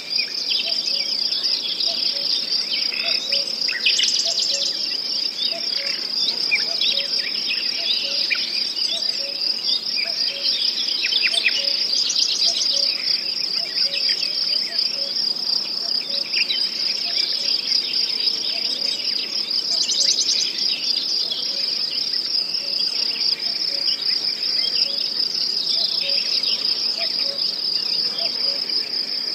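Outdoor chorus of insects, likely crickets, trilling steadily at a high pitch, with birds chirping and calling over it. A louder burst of trilling comes back about every eight seconds.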